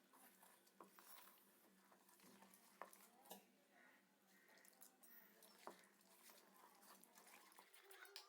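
Very faint stirring of gram-flour batter in a bowl, with a few light scattered clicks.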